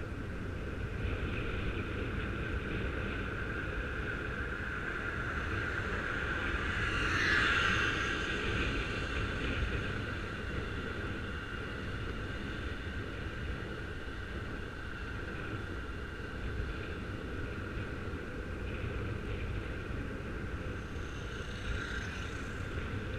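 Riding noise from a bicycle heard through a helmet-mounted camera microphone: steady wind rush on the microphone with a constant humming whir over it. The sound swells to its loudest about seven seconds in, then settles back.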